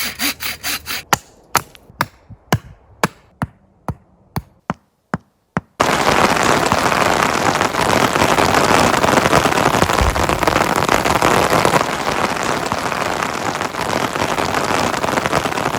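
A run of sharp knocks, about two a second, for the first six seconds. Then heavy rain starts suddenly and pours steadily.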